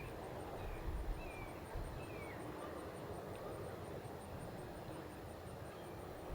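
Outdoor nature ambience: an insect chirping in a high, very even pulse about six times a second, a few short bird chirps in the first two seconds or so, and a low wind rumble.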